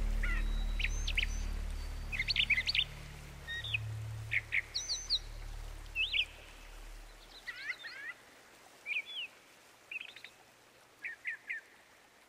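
Birds chirping in short calls and quick clusters of three or four notes, some gliding up or down, over the low tones of background music, which fade out a little past halfway.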